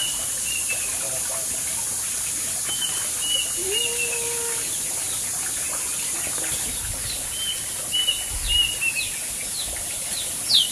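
Small birds chirping in short runs of quick falling notes, with two sharp downward calls near the end, over a steady high-pitched background drone.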